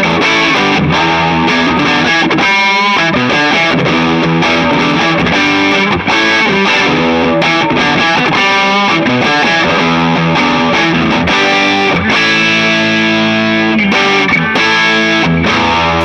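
Electric guitar played through distortion: a continuous rock riff of quick notes and chords, with longer held chords in the last few seconds.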